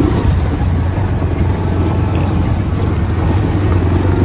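Steady road noise from a moving superbike: a low engine drone mixed with wind rush, with no separate events standing out.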